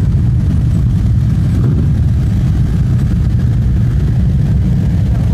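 2011 Harley-Davidson Street Glide's V-twin engine running steadily, a loud, deep exhaust sound shown off for its sound.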